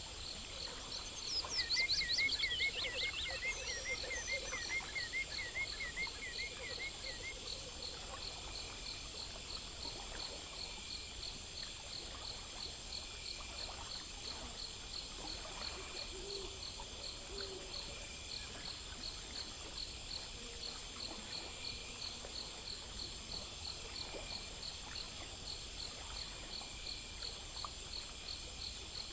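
Nature ambience of insects chirping in a steady, high, pulsing chorus. A bird sings a rapid trill of repeated notes during the first several seconds.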